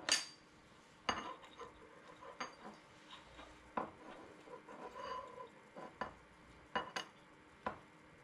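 Scattered light clicks and clinks, about eight over several seconds, from small parts and tools being handled on a workbench.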